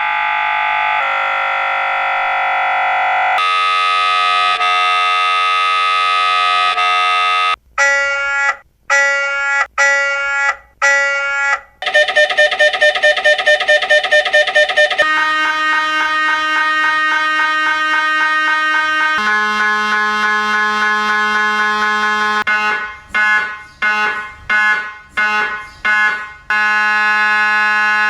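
Electronic alarm tones cycling through different patterns every few seconds. First come steady held tones, then about five separate beeps, then a fast pulsing tone about four to five times a second. After that come more steady tones, a run of beeps that speeds up, and a steady tone again near the end.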